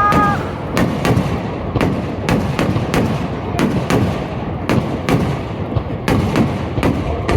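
Aerial fireworks bursting in quick succession, a dense run of sharp bangs and booms, about two to three a second. A whistling shell's rising whistle fades out just after the start.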